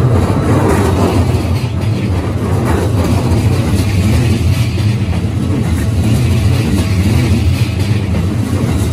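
Keikyu 2100-series electric train passing close by at a level crossing: a loud, steady rumble and clatter of steel wheels on the rails.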